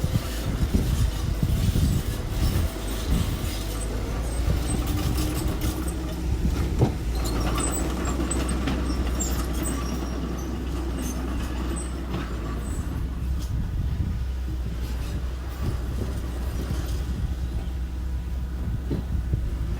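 Diesel engines of small earthmoving machines running steadily, with scattered knocks and clanks.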